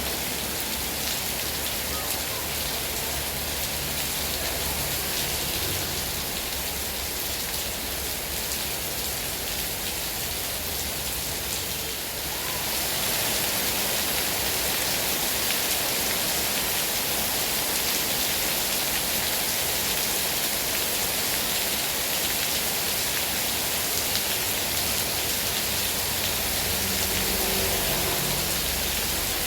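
Heavy rain falling steadily, a dense hiss of drops on surfaces; it grows louder and brighter about twelve seconds in.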